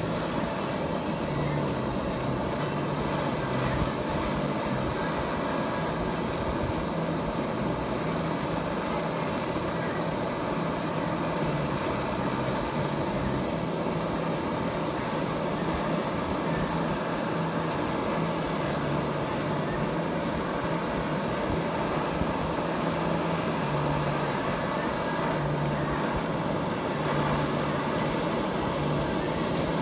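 Gas brazing torch flame burning with a steady hiss while copper is brazed with silver brazing rod.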